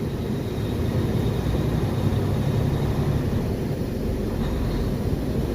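Semi truck's diesel engine running with a steady low rumble, with no change in pitch or level.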